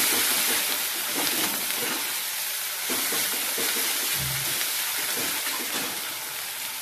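Onions and spice paste sizzling in hot mustard oil in an aluminium kadai, stirred with a metal ladle. The sizzle is loudest at the start and slowly eases off.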